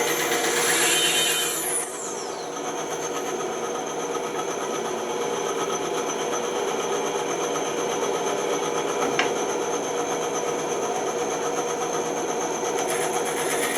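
Bandsaw running with a steady motor hum, cutting wood briefly near the start and again near the end, with a single click about nine seconds in.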